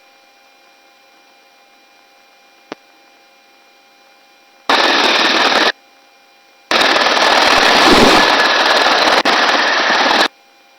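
Helicopter intercom channel keying open twice, each time passing a loud rush of rotor and engine noise that starts and cuts off abruptly, the second time for about three and a half seconds. In between, the closed channel carries only a low steady hum with thin steady tones and one click.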